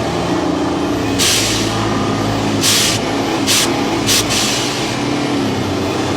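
Truck engine running steadily, with four short, sharp bursts of air hiss over it.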